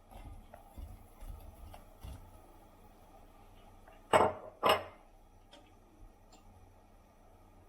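Kitchen tableware being handled: a few soft knocks, then two sharp ringing clinks about half a second apart near the middle.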